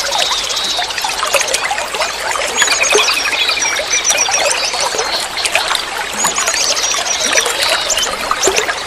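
Water trickling and splashing steadily, with small birds chirping and trilling over it; a rapid run of trilled notes comes about two and a half seconds in.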